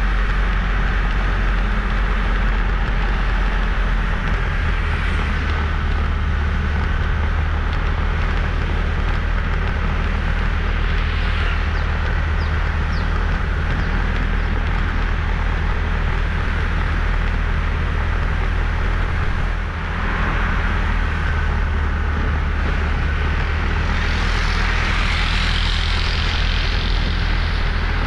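Motorbike running on the road with heavy wind noise on the microphone, a steady low rumble throughout. Near the end a louder hiss swells and fades over a few seconds.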